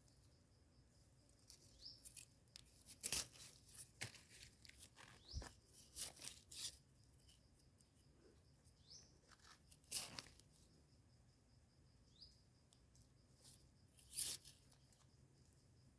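Irregular rustling, crackling and tearing of plant debris being worked by hand while foraging, loudest about three, ten and fourteen seconds in. A short rising bird chirp repeats every few seconds over a faint, steady high insect whine.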